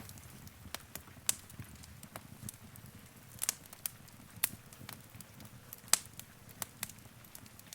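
Wood fire crackling in a fireplace: irregular sharp pops and snaps, a few of them loud, over the low steady rumble of the burning logs.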